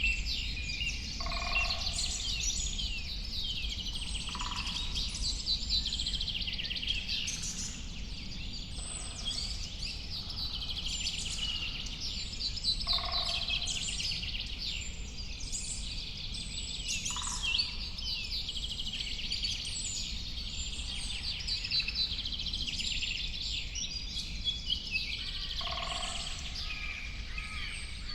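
A dawn-chorus-like mix of many songbirds singing and chirping at once, with a lower, two-part call from another bird repeating every few seconds, over a steady low background rumble.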